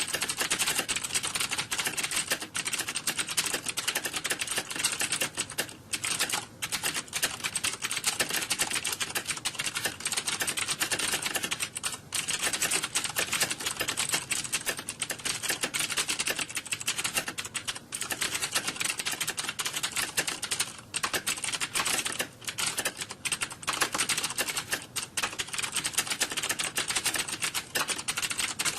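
Fast, continuous typing on computer keyboards: a dense clatter of keystrokes with only a few brief pauses.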